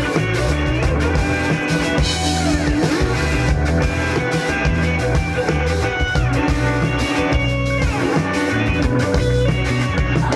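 Live rock band playing an instrumental passage: guitar over bass and a drum kit, with no vocals.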